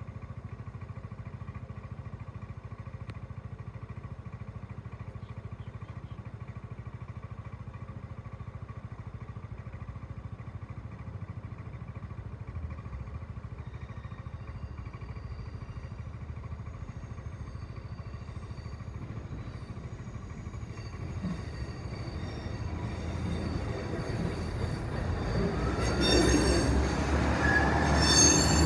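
A motor scooter idles steadily as a First Great Western passenger train is heard approaching from about twenty seconds in, growing louder. Near the end the train runs over the crossing with a quick series of wheel clicks on the rail joints.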